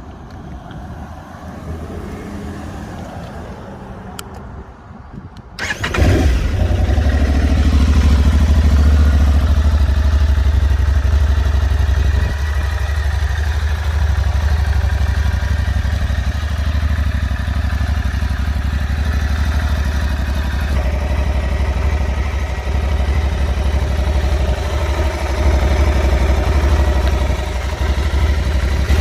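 Aprilia Tuareg 660's parallel-twin engine cold-starting: after a few quieter seconds with a couple of faint clicks, it fires and catches about six seconds in. It runs at a raised cold idle, then settles into a steady idle for the rest of the time.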